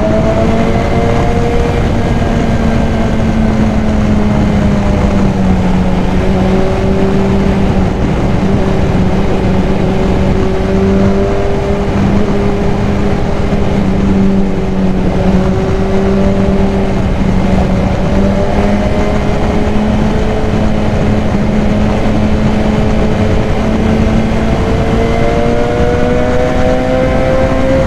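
BMW S1000XR's inline-four engine running at a fairly steady cruise, breathing through a K&N high-flow air filter; its pitch dips slightly a few seconds in and climbs again near the end. Steady wind rush runs under it.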